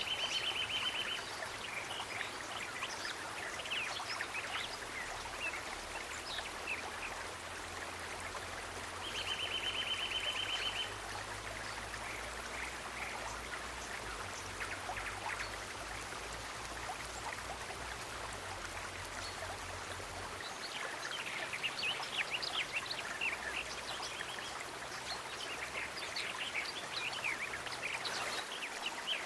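Nature ambience of running water trickling steadily, with scattered short bird chirps and two buzzy trills of about a second and a half, one at the start and one about ten seconds in. A faint low rumble underneath stops about two-thirds of the way through.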